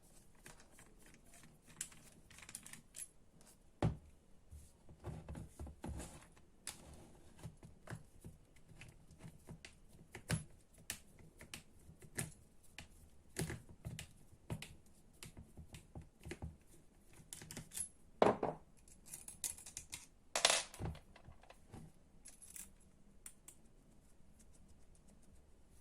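Irregular clicks and small metal and plastic clatters of an electric string trimmer being taken apart by hand, as screws and housing parts are handled. There are two louder, longer rattles about eighteen seconds in and again two seconds later.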